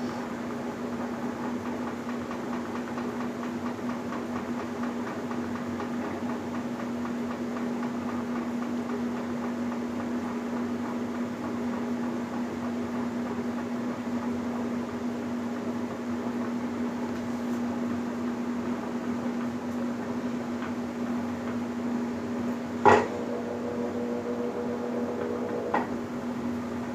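Electrolux LBU15 top-load washing machine humming steadily while it drains. About 23 seconds in there is a sharp click, followed by a short steady tone that ends with a smaller click some three seconds later.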